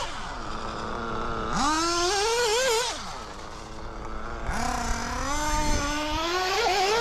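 O.S. Speed AD3 nitro engine in an RC car, still being broken in, revving up and backing off twice: its high-pitched buzz climbs under throttle, then drops away as the throttle comes off.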